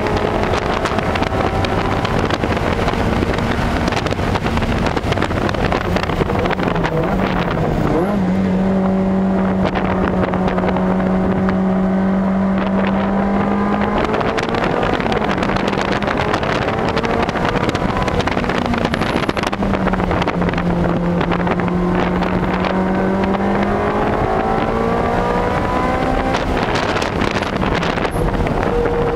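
Ferrari 360 Challenge Stradale's 3.6-litre V8 heard from inside the cabin at track speed, its pitch climbing and falling with throttle and gear changes. The note drops sharply about seven seconds in, holds steady for several seconds, falls again, and climbs near the end.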